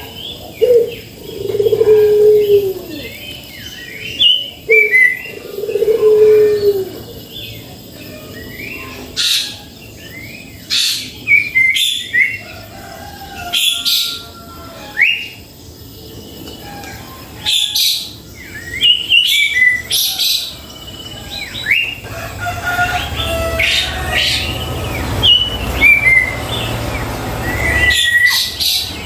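Songbirds calling: repeated short whistled and chirping notes, many sliding down in pitch, with lower curved notes in the first seven seconds. A low rumble rises underneath in the last several seconds.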